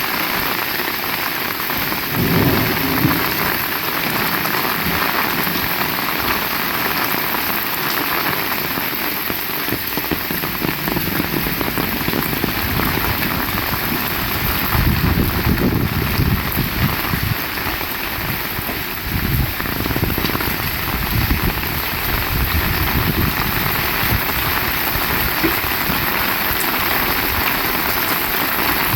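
Heavy rain falling steadily, with low rumbles of thunder swelling about two seconds in and again around the middle of the stretch.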